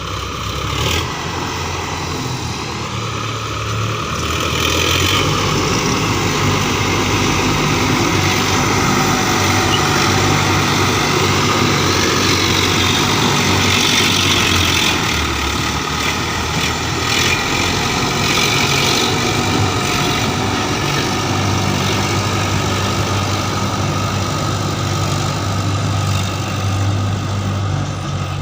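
Diesel engine of heavy farm machinery running steadily, getting louder about four to five seconds in and then holding a constant load.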